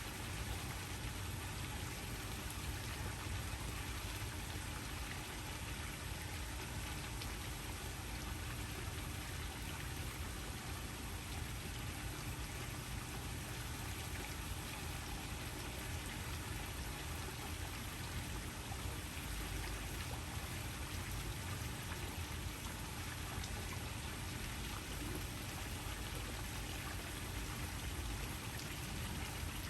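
Waterfall rushing steadily: an even, unbroken wash of falling-water noise with a deep low rumble, and a faint steady hum underneath.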